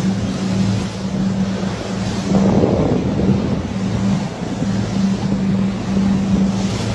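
A boat's engine running steadily with a constant hum, under wind and rushing water noise, swelling briefly about a third of the way in.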